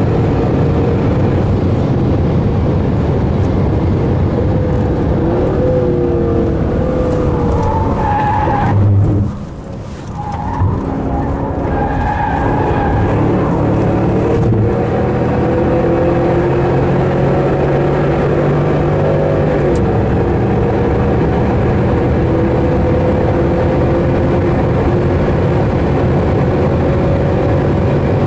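Chevrolet Camaro engine heard from inside the cabin while driven hard at speed, with heavy road and wind noise. The engine note climbs, drops away sharply for about a second around nine seconds in, then picks up again and rises slowly for the rest of the lap.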